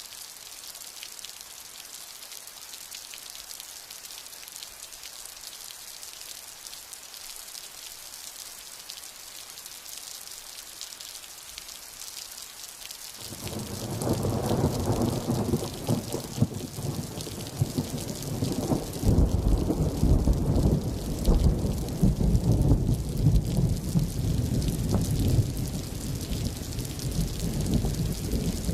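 Steady rain hissing, then about halfway through a long roll of thunder sets in suddenly and rumbles deep and loud, swelling again a few seconds later and rolling on under the rain.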